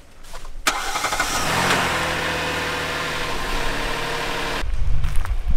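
Hyundai Palisade SUV engine cranking, catching and running up to a steady fast idle after its battery had gone flat. A sharp click at the start, and the sound cuts off abruptly near the end.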